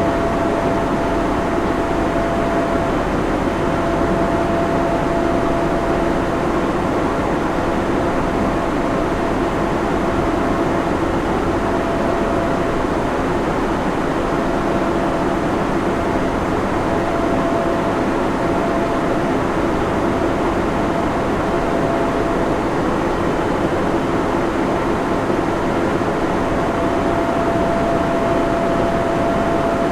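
Server room ambience: the steady whir of cooling fans and air handling, with a constant mid-pitched hum over the rushing noise.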